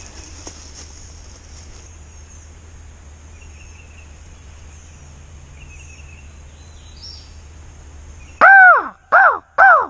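Three loud, harsh crow caws in quick succession near the end, each one rising and falling in pitch.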